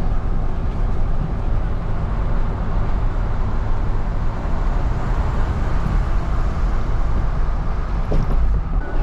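Wind buffeting the microphone outdoors, a steady rumbling noise heaviest in the low end, with a few sharp ticks near the end.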